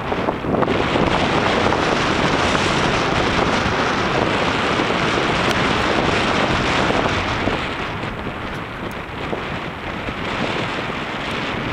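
Strong wind buffeting the microphone, a steady rushing noise that eases a little about eight seconds in.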